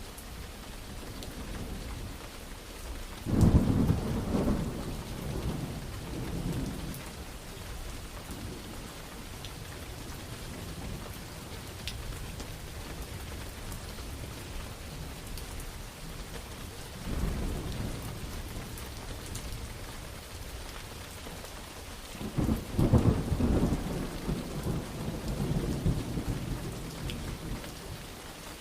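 Steady rain with thunder rolling three times: a loud clap and rumble a few seconds in, a weaker rumble past the middle, and the loudest roll of thunder near the end, each lasting a few seconds.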